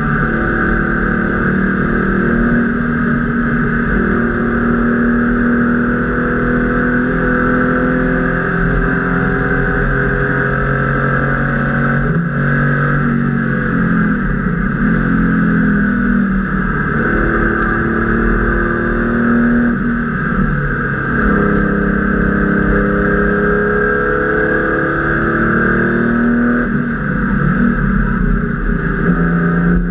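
Air-cooled flat-six engine of a Porsche 993 RS Club Sport race car at full throttle, heard from inside the stripped cockpit. The engine note climbs and drops repeatedly as the car accelerates, shifts gear and lifts off for corners.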